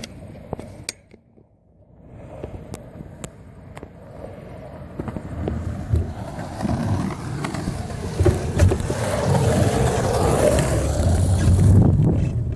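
Bicycle rolling along a paved path: tyre rumble and small rattles and clicks from the bike, with wind on the microphone, dropping almost away for a moment about a second in, then growing steadily louder as speed builds.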